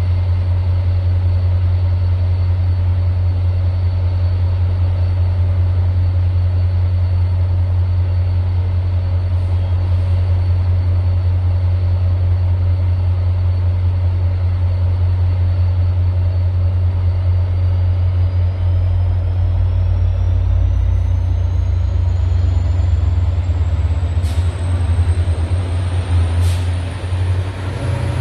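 High-speed train running with a steady low rumble, and a thin whine that rises in pitch over the last ten seconds or so. Two sharp clicks come near the end.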